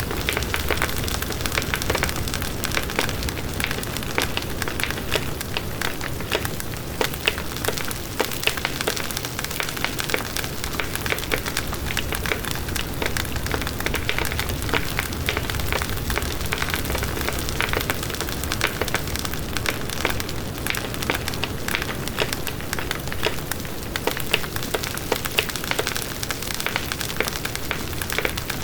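Campfire crackling: burning wood snapping in many quick, irregular cracks over a steady hiss.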